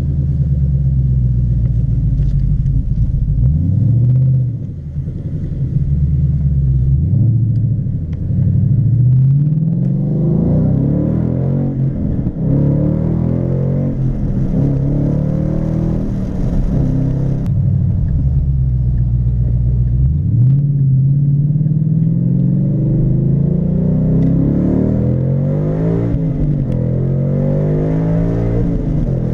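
2014 Mustang GT's 5.0 V8 exhaust note through a Magnaflow Competition catback, accelerating through the gears. The pitch climbs and drops back several times as it shifts up.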